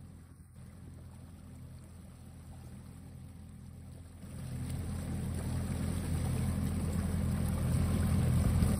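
Small boat's outboard motor running steadily, getting louder about four seconds in as it speeds up, with water and wind rushing past.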